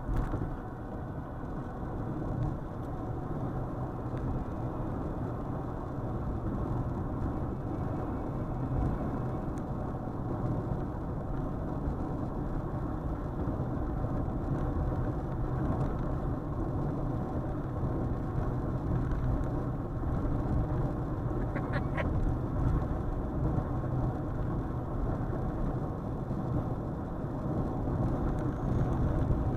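Steady low rumble of tyres and engine heard inside a car driving at freeway speed. A brief high-pitched squeak comes about two-thirds of the way through.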